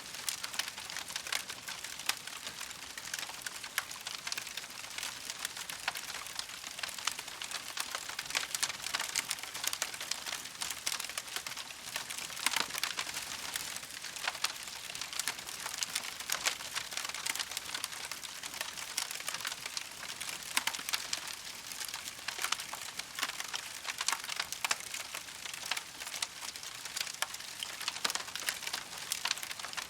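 Campfire crackling steadily: a dense hiss of small pops and snaps from the burning wood, with frequent sharper cracks.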